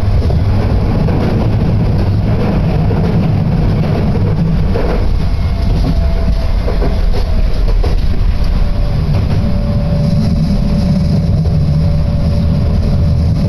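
Fukui Railway Fukubu Line train running, heard from inside the car: a steady low rumble, with a faint steady whine coming in about six seconds in.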